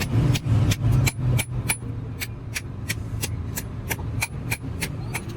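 Rhythmic hammer blows on metal, about three a second, over a steady low rumble.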